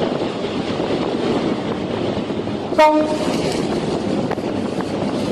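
Steady rushing noise of wind and water, with one short, flat-pitched horn blast about three seconds in.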